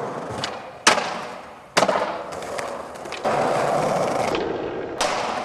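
Skateboard wheels rolling on hard ground, with sharp clacks of the board slapping down about a second in, again near two seconds and once more near the end. The rolling gets louder around three seconds in.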